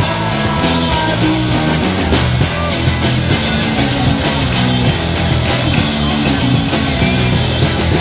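Live rock band playing an instrumental passage between vocal lines: distorted electric guitar, bass and drums at a steady beat.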